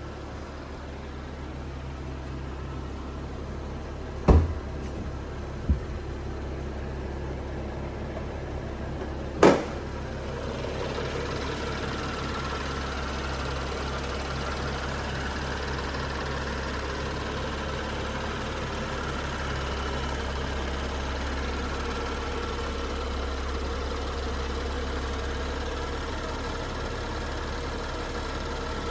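BMW 640i Gran Coupe's turbocharged inline-six idling steadily, still cold from a cold start with the oil not yet warmed up. Three sharp knocks come about four, six and nine and a half seconds in, and after about ten seconds the running grows a little fuller and louder.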